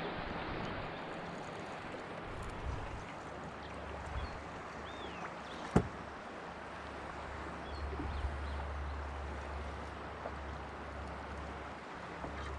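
Steady noise of water and wind around a kayak, with a low rumble of wind on the microphone in the second half. A single sharp knock comes near the middle.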